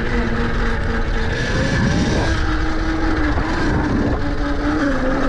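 Tuttio electric dirt bike's motor whining as it rides, the pitch stepping up about two seconds in and dropping back near the end, over steady rushing wind and tyre noise.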